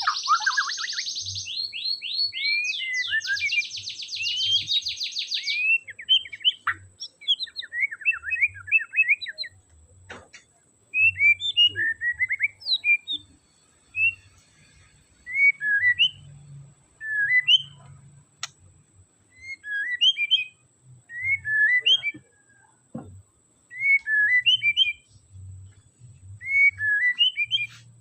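White-rumped shama (murai batu) singing: a fast, dense rattling trill for about the first six seconds, then short phrases of clear whistled notes every second or two.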